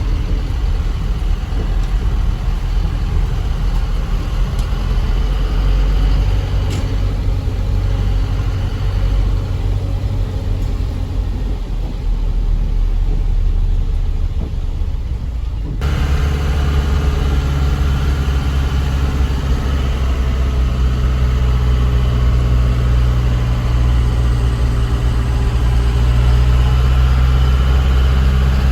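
Truck's diesel engine running steadily while driving on the road. About halfway through the sound changes abruptly to a steadier, stronger low hum.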